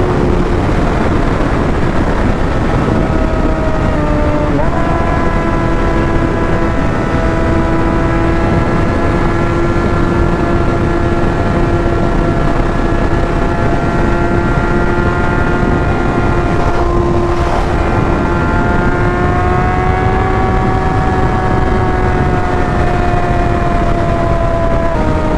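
Motorcycle engine running at a steady cruise, heard through a helmet microphone over rushing wind. The engine pitch dips briefly and recovers about four seconds in, then sags slightly near the end.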